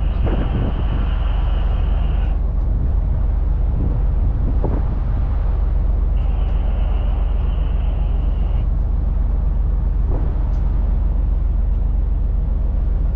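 Strong wind buffeting the microphone on the deck of a container ship: a steady, heavy low rumble, with a higher hiss that comes in twice for a couple of seconds.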